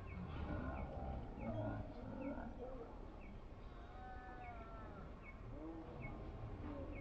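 Quiet outdoor ambience: a small bird giving short high chirps about once a second, with fainter gliding calls in the background.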